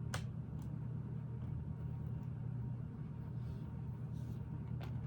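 Lego pieces clicking as they are handled and pressed together: a sharp click right at the start, a fainter one about half a second later, and another near the end, over a steady low hum.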